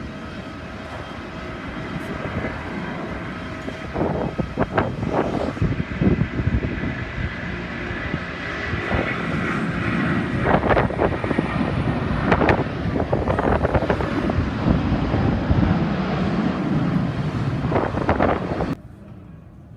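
Jet airliner engines running loud and growing louder over several seconds, with a faint high whine rising in pitch midway, then cut off abruptly shortly before the end.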